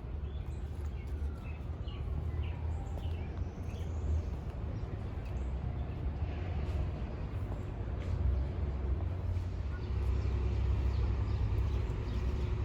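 Outdoor ambience: birds chirping over a steady low rumble.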